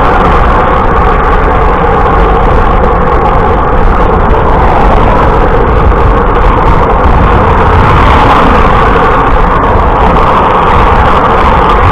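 Steady, loud rush of wind and road noise on a camera carried by a moving bicycle.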